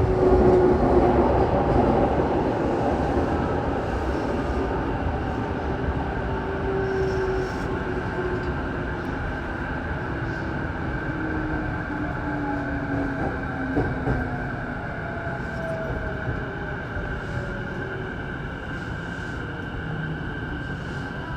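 Saikyo Line electric commuter train heard from inside the car, slowing as it brakes into a station. Its motor whine glides down in pitch over a steady rumble of wheels on rail, and the whole sound slowly grows quieter. There is a single knock about 14 seconds in.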